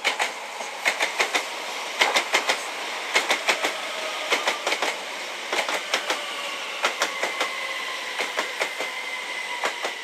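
Class 379 Electrostar electric multiple unit passing at speed, its wheels clicking over rail joints in quick groups of two to four, one group per bogie, over a steady rumble. A faint whine underneath slowly falls in pitch as the train goes by.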